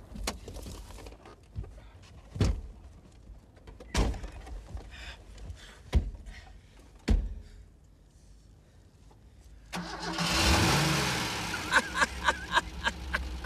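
A car engine starts suddenly near the end and keeps running, with a short rise and fall in pitch as it catches, and a few sharp clicks over it. Before that, a series of single knocks and thumps, well spaced apart.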